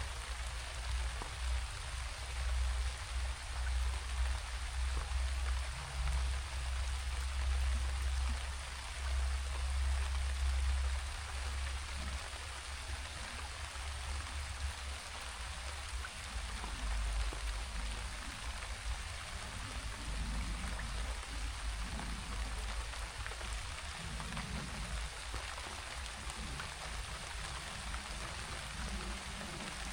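Steady rain falling and pattering on surfaces, an even hiss throughout. A low rumble under it is strongest in the first ten seconds or so.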